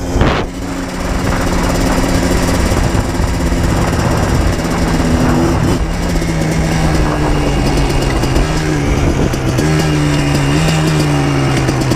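2000 Yamaha Blaster 200's single-cylinder two-stroke engine running under way at a fairly steady speed, its pitch stepping up slightly a little before ten seconds. A short knock just after the start.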